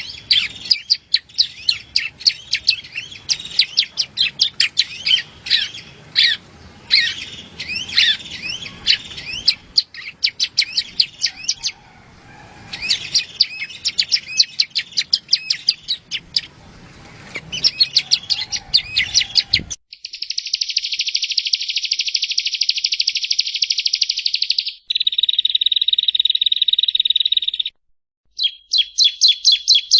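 Yellow-bellied prinia song: a quick run of sharp, repeated chirping phrases, then about twenty seconds in a sudden switch to a cleaner recording of long, fast, buzzy trills, the last two separated by a brief gap.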